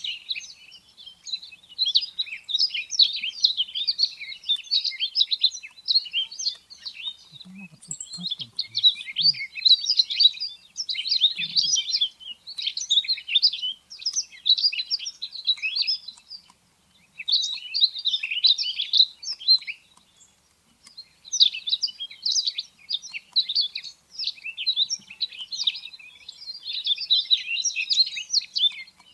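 Rustic bunting vocalizations from a field-guide recording: dense, continuous high twittering of quick chirps, broken by a couple of short pauses about halfway through.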